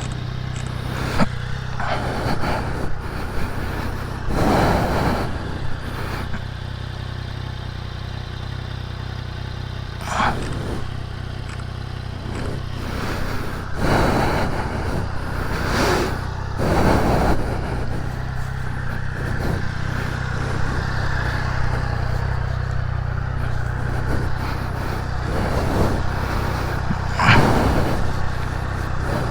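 Triumph Daytona 660's inline three-cylinder engine running steadily, with repeated brief surges of noise over it.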